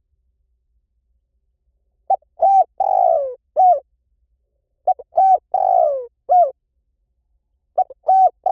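Spotted dove cooing: the same phrase three times, about three seconds apart, each a short note, a coo, a long falling coo and a closing coo. It starts about two seconds in, and the third phrase is cut short at the end.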